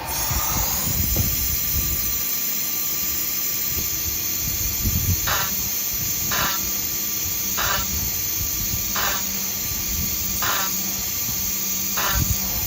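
CNC engraving machine's high-speed spindle running with a steady whine and hiss, with six short rasping cutting bursts about every second and a half from about five seconds in, as the drill bites into bakelite for screw holes.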